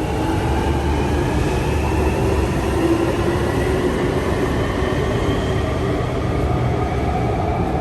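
London passenger train running: a steady rumble and hiss with faint whining tones that drift slowly in pitch.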